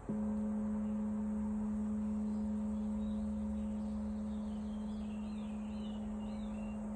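Crystal singing bowl struck at the start, then ringing one steady low tone with fainter higher overtones. A bird chirps a string of short rising-and-falling notes in the second half.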